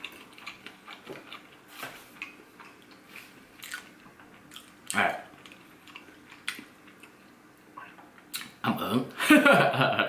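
Mouth sounds of chewing a bite of deep-fried cheese corn dog: soft crunches and wet clicks. About eight and a half seconds in comes a louder stretch of handling noise mixed with a voice-like sound.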